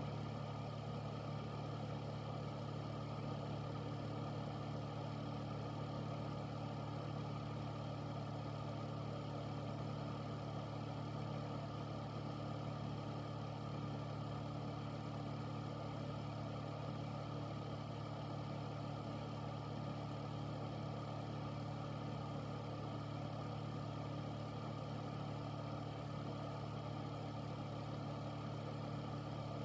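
Air filter running steadily: an even rush of air from its fan over a constant low motor hum, unchanging throughout.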